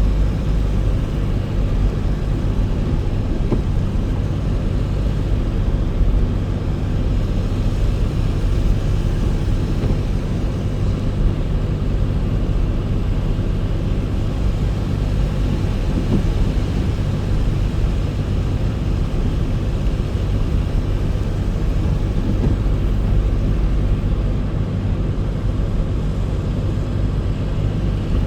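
Car on the move: a steady low engine hum and road rumble, without change.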